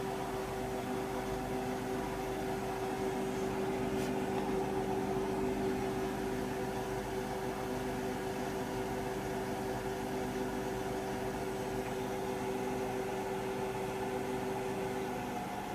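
Hotpoint front-loading washing machine running mid-cycle, its motor giving a steady hum with a low rumble beneath.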